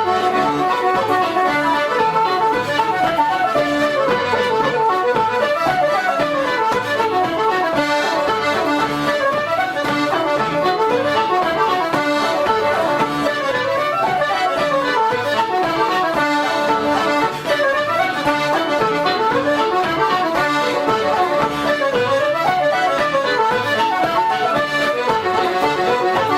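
Irish traditional reels, with an accordion leading a fast, steady run of notes.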